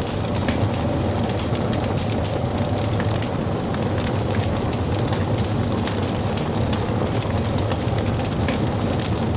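Wood fire burning: a steady low rumble of flames with scattered crackles and pops of the burning wood.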